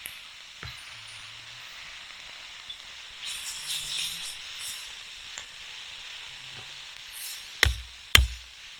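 Steady sizzling of food cooking over a campfire, with a louder rough stretch about three to five seconds in and two sharp knocks near the end.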